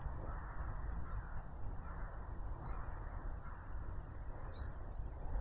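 Woodland ambience: a bird giving three short, high chirps spaced a second and a half to two seconds apart, over a steady low rumble and hiss.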